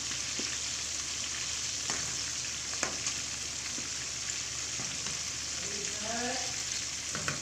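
Chicken pieces deep-frying in hot oil: a steady sizzle with a few sharp pops. The chicken is not yet done.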